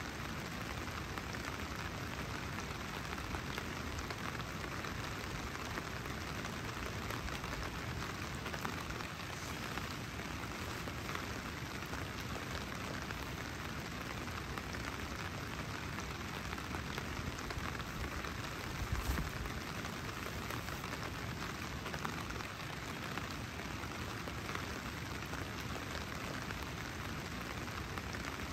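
Steady rain falling on a nylon tarp and tent fly. About two-thirds of the way through there is one brief low thump.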